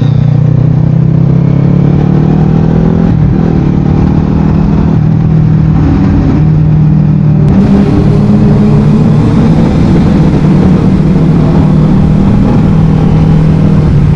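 Motorcycle engine running steadily at riding speed, over a continuous rush of road noise, with a brief shift in engine pitch about three seconds in.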